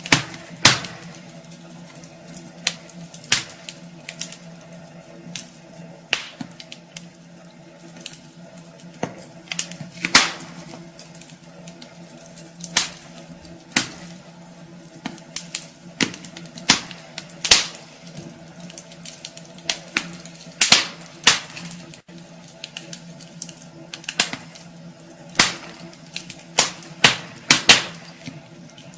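Wood fire crackling in a fireplace: irregular sharp pops and snaps, some single and some in quick clusters, over a low steady hum.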